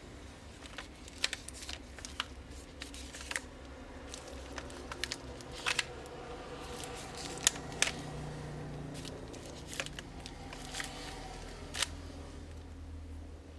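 Scattered sharp clicks and taps from a smartphone and small repair tools being handled during disassembly, the loudest pair about seven and a half seconds in, over a steady low hum.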